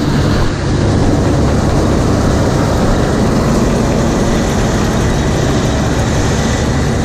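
John Deere 7720 combine running steadily while harvesting wheat: a constant engine drone with loud machinery noise over it.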